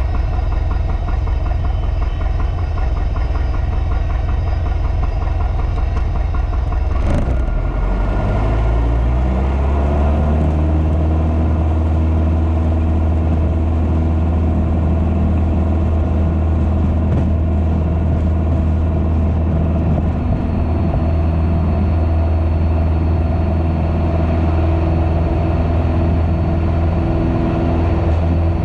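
Piper PA-28's piston engine and propeller running steadily. About seven seconds in its pitch rises over a couple of seconds as power comes up, then it holds steady at the higher setting.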